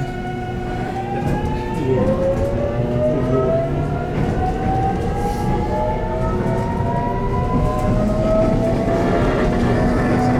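JR Kyushu 813 series electric train's VVVF inverter motor whine as the train accelerates: several tones rise together and step up in pitch, over the low rumble of the running gear.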